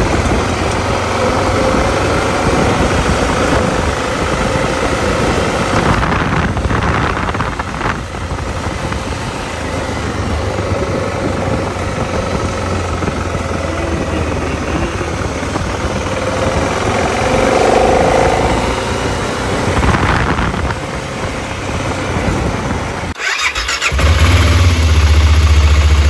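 BMW 650 GS motorcycle engine running as the bike is ridden, with rushing noise over it. About 23 seconds in it drops out briefly, then comes back as a louder, steadier low engine sound.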